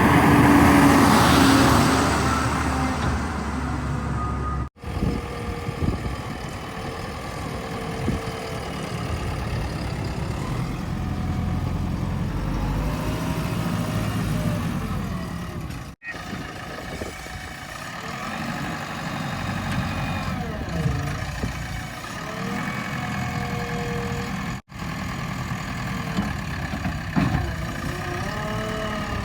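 Diesel engines of heavy machinery such as a backhoe loader and tractors, running and revving, with the pitch rising and falling in places. The sound breaks off abruptly three times where the clips are cut together.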